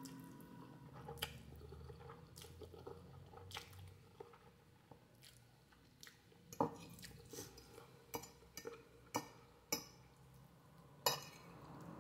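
Close-miked eating sounds of a person chewing a meal of instant noodles, with scattered soft wet mouth smacks and clicks, the loudest ones in the second half.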